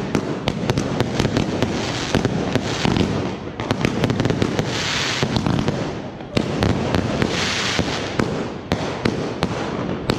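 A dense barrage of consumer fireworks: many sharp bangs and cracks in rapid succession from cakes and aerial shells going off together. Two stretches of loud hissing from rising comets and fountains come about five and seven and a half seconds in.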